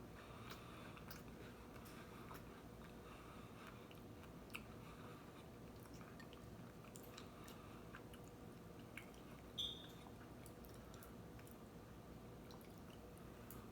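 Faint chewing of a milk-soaked Oreo cookie, with soft wet mouth clicks scattered through it. A brief high chirp about nine and a half seconds in is the loudest moment.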